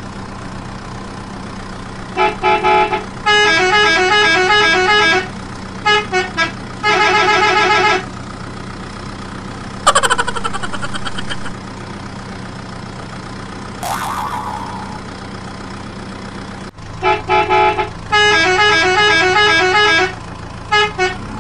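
Vehicle horn sound effect sounding in loud runs of rapid beeps that step up and down in pitch like a musical truck horn, three times, over a steady low engine drone. Two brief falling-pitch effects come around ten and fourteen seconds in.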